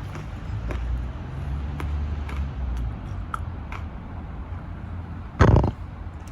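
A person chewing pizza quickly with a full mouth: low muffled chewing with scattered small mouth clicks, and one short loud noise about five and a half seconds in.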